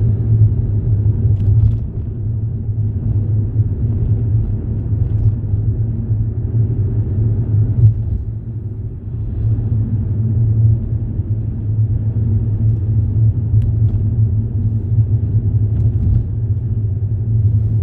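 Steady low rumble of a motor vehicle on the move, with an engine hum underneath and a few faint ticks.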